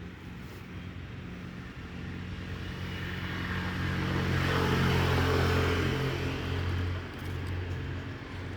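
An engine running with a steady low hum that grows louder toward the middle, then drops back about seven seconds in.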